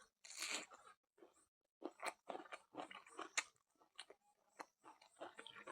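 A person chewing food with the mouth close to the microphone: irregular crunching and short smacking clicks.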